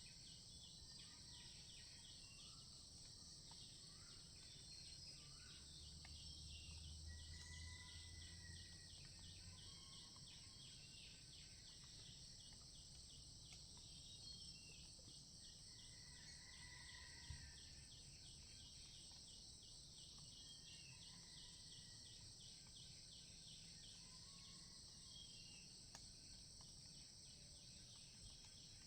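Faint steady chorus of insects trilling high and fast, with scattered short bird calls. A low rumble rises for a few seconds, about six seconds in.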